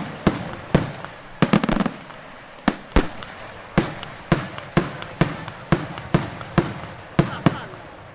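Daytime fireworks display: a rapid series of loud, sharp bangs, about two a second at uneven spacing, each with a short echoing tail.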